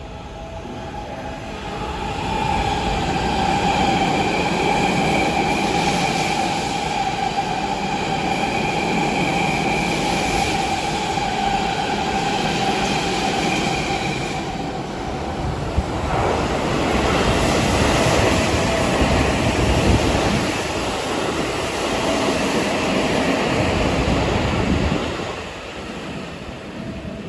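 Seibu Railway electric train running through, its steady high whine lasting about the first half, then a louder rumble and rattle of wheels on rail that falls away near the end.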